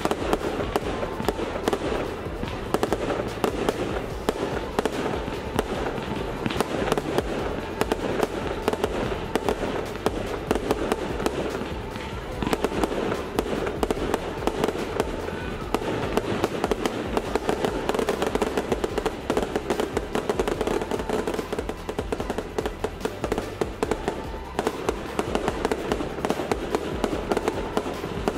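Fireworks display: aerial shells banging and crackling in quick succession throughout, with music playing alongside.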